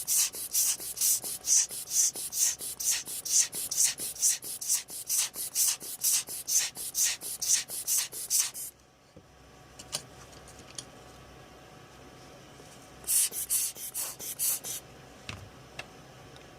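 Rapid back-and-forth scrubbing strokes, about three to four a second, that stop about nine seconds in; a few faint clicks follow, then a shorter run of the same strokes near the end.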